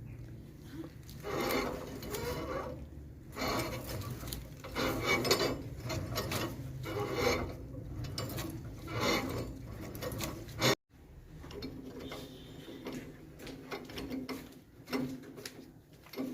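Grass chopper machine running with a steady low hum and a rasping burst every second or two as grass goes through its blades. About two-thirds of the way through the sound cuts out for a moment, then goes on more quietly.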